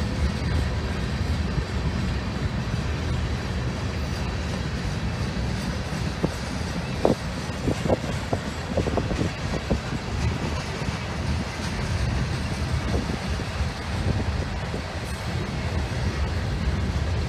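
Train rolling past, a steady low rumble of wheels on rail, with a run of sharp clicks about halfway through.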